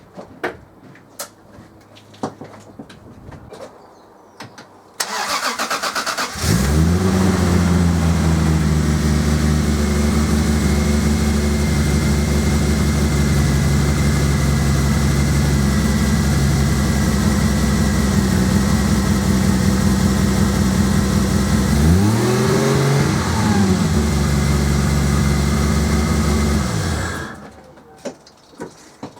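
Toyota Supra's turbocharged straight-six cranked on the starter about five seconds in, catching and settling into a steady idle, with one short rev blip near the end before it is switched off. New spark plugs have it firing on all six cylinders, though the owner thinks the ignition timing may be slightly out.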